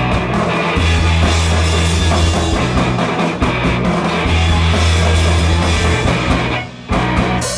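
Live rock band playing an instrumental stretch of a song, with guitars, bass and drum kit. The band drops out briefly near the end, then comes back in.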